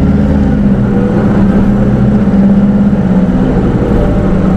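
Hino Rainbow II SDG-KR290J1 city bus's four-cylinder diesel engine running with a steady hum and low rumble, heard from inside the passenger cabin.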